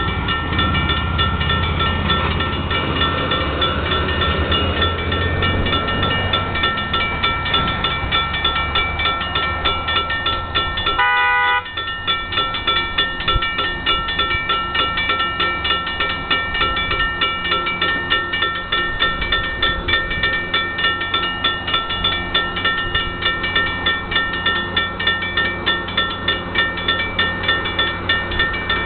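Metro-North diesel train pulling into the station, engine rumbling, while its locomotive bell rings steadily at about two strokes a second. A brief sounding of the horn comes a little over a third of the way through.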